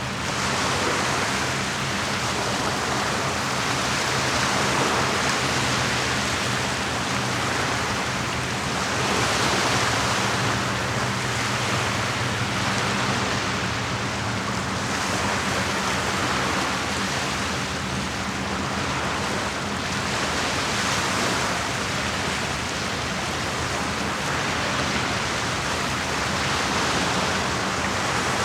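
Lake waves washing against the shore in a steady rush that swells and eases every few seconds, with a faint steady low hum underneath.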